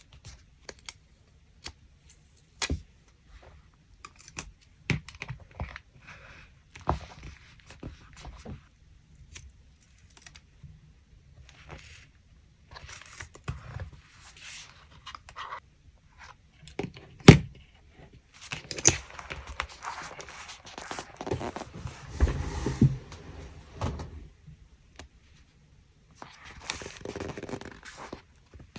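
Collage and scrapbooking handling sounds: a string of small taps, clicks and knocks as paper pieces and tools are picked up and set down, with one sharp knock a little past the middle. Longer stretches of paper rustling and scraping follow in the second half.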